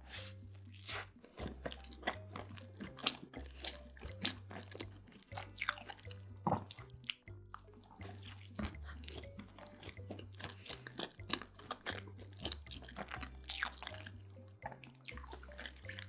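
A person biting into and chewing a soft white-bread sandwich close to the microphone: a steady run of many short mouth clicks and smacks.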